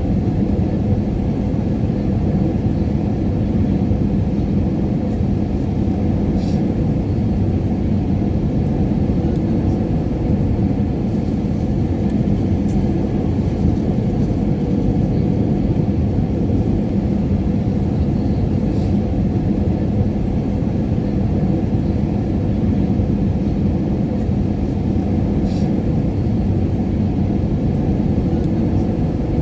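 Airliner cabin noise in flight: a steady, low drone of engines and rushing air with a constant hum, and two faint ticks about six seconds in and near the end.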